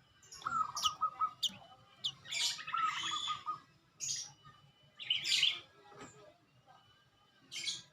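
A songbird singing in separate phrases of about a second each, mixing high, sharp notes with lower rapid trills, with short pauses between phrases.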